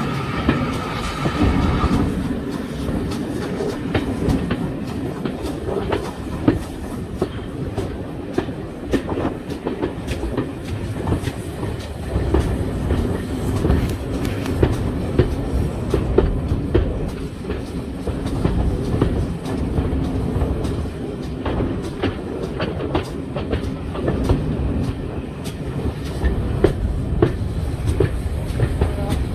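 Steam-hauled passenger train running along the line: a steady rumble with frequent clicks of the wheels over the rail joints. A high ringing tone stops about two seconds in.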